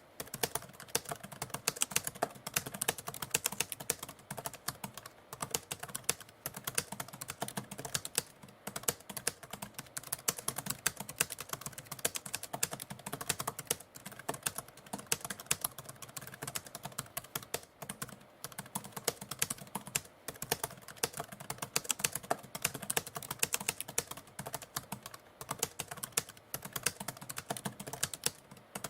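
Typewriter keys striking in a fast, uneven stream of clicks.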